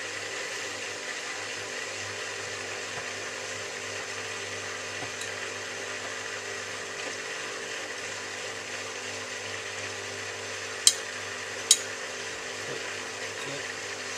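Miele W3744 washing machine draining, its drain pump running with a steady hum. Two sharp clicks come about a second apart, roughly three-quarters of the way through.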